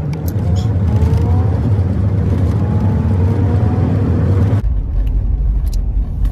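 Car engine heard from inside the cabin, pulling under acceleration with its note slowly rising; about four and a half seconds in the engine note suddenly drops away to a deep low drone, as when the driver lifts off the throttle.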